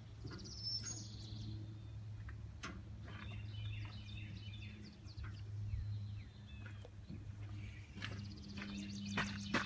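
Small birds chirping over a low steady hum, with a few scattered clicks. Near the end a deeper hum builds and there is a sharp knock, just as the tractor's engine is about to be started.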